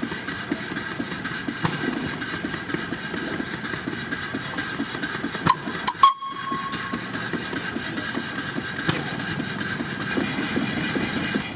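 Antique stationary engine running steadily with a fast, even mechanical rhythm. A couple of sharp clicks come about halfway through.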